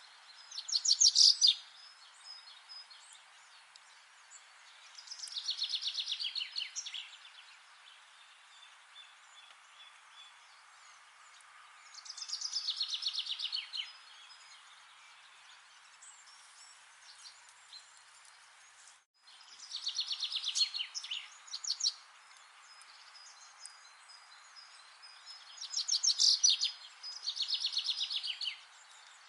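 A songbird singing, repeating short phrases of rapid high trilled notes every five to seven seconds over a steady background hiss. The sound drops out for a moment about two-thirds of the way through.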